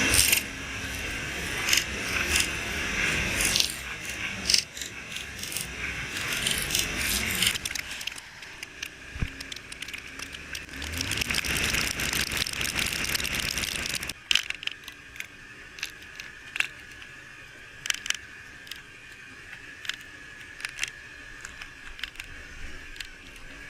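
Raindrops striking a motorcycle rider's camera or helmet in a downpour: scattered sharp taps over a steady rushing hiss of wind and road spray. The hiss drops away abruptly about fourteen seconds in, leaving sparser taps.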